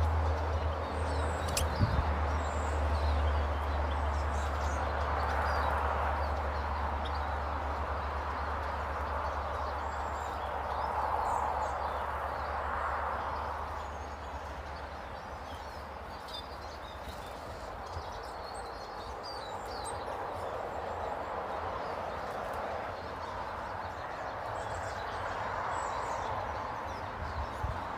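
Small garden birds giving scattered short chirps over a steady rushing background noise that swells and fades every few seconds. A low steady hum underneath stops about halfway through.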